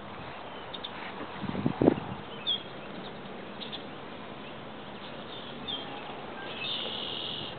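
Birds chirping in short high calls over a steady outdoor hiss, with a brief thump about two seconds in.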